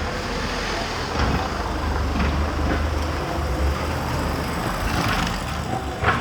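Street traffic passing close by, with a steady low engine rumble and tyre noise, and a short sharp burst of noise near the end.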